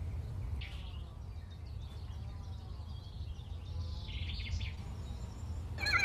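Quiet outdoor ambience: a steady low rumble with a few faint bird chirps, once about a second in and again around four seconds in. Music comes in right at the end.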